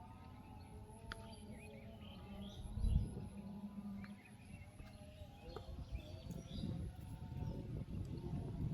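Small birds chirping now and then over low outdoor rumble, with a dull thump about three seconds in.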